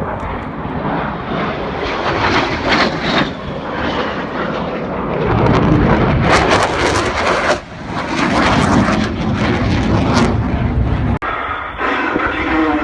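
Aircraft engines running loud, a continuous noisy roar that swells in the middle. About eleven seconds in it cuts off abruptly into a different sound.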